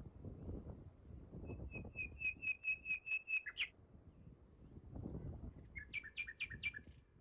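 A songbird sings two phrases of quickly repeated short notes, the first a run of about nine notes ending on a higher note, the second shorter, about a second long, with faint low rustling underneath.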